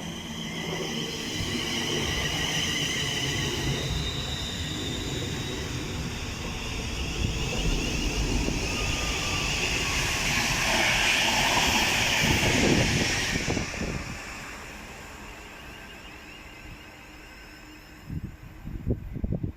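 Train passing through the station: a steady rumble with high whining tones, growing to its loudest about twelve seconds in, then fading away. A few short bumps come near the end.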